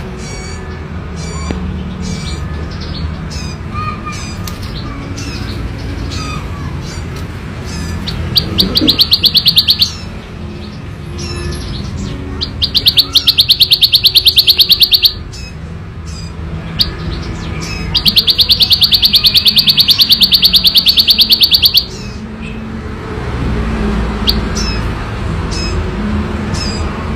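Ciblek sawah, a prinia, singing its loud, fast buzzing trill ("ngebren") in three long bursts of a few seconds each, with short chirps from other birds in between and a low steady background rumble.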